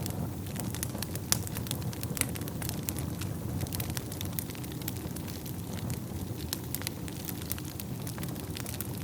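Wood fire burning in a fireplace: a steady low rumble of flames with irregular sharp crackles and pops, one louder pop a little over a second in.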